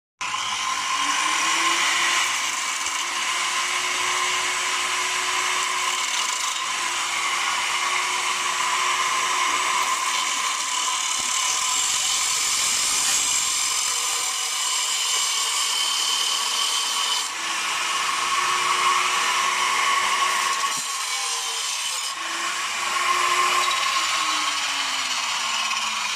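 Electric power tool running steadily with a whine. Its motor pitch rises as it spins up and falls as it slows, several times over.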